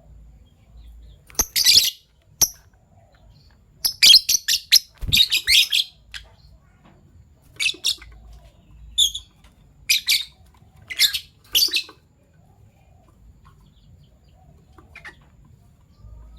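Fischer's lovebirds giving high-pitched chattering chirps in short bursts, falling nearly quiet about twelve seconds in.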